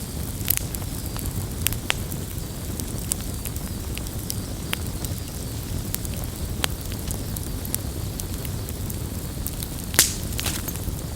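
Campfire burning: a steady low rush of flame with scattered sharp crackles and pops, and one louder pop near the end.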